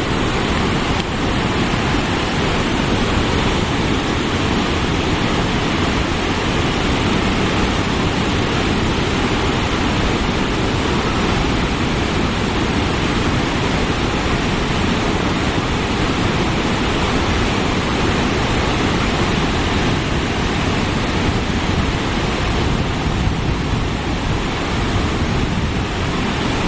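Paterson's Great Falls of the Passaic River running high after Hurricane Irene: a loud, steady rush of falling water with no change throughout.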